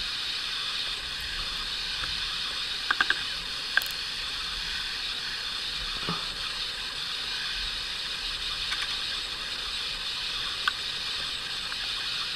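Steady rain falling on foliage, an even hiss, with a few sharp ticks of drops: three close together about three seconds in, and single ones later.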